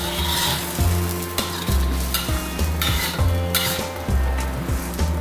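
A spatula stirring and scraping thick rendang spice paste that sizzles as it fries in a wok, with repeated strokes every second or so.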